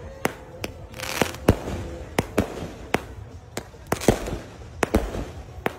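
A 120-shot fireworks cake firing: a quick, irregular series of sharp bangs, about two or three a second, with a short crackling hiss about a second in.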